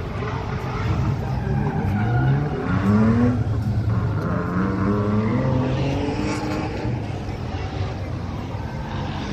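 Car engines running near the drag strip's starting line, with an engine revving up twice, rising in pitch. The loudest pull comes about three seconds in and the second a second or two later, before it settles back to a steady running rumble.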